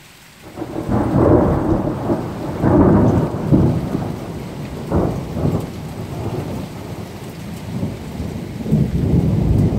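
Thunder rumbling and cracking after a lightning flash, starting about half a second in and surging several times, loudest in the first few seconds, over steady rain.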